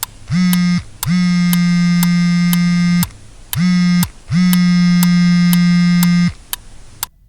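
A mobile phone vibrating on a table, buzzing in two rounds, each a short buzz followed by a longer one of about two seconds. A sharp ticking about twice a second sounds along with it.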